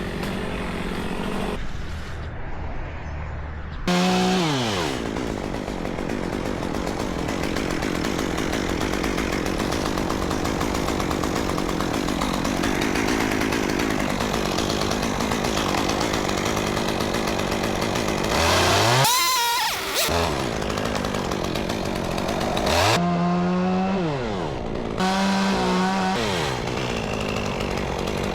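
Chainsaw cutting through a tree stem, running steadily under load, with several rev-ups and drops in pitch between cuts: once about 4 s in, again around 19 s, and repeatedly near the end.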